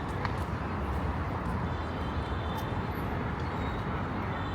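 City street ambience: a steady low rumble of road traffic with a general hum of the street.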